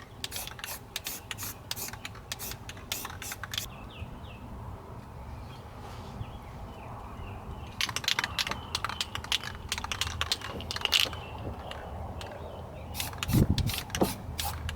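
Aerosol spray-paint can being shaken, its mixing ball rattling in quick clicks about four a second, in three spells with a pause between, readying the can for the next coat. A low thump near the end.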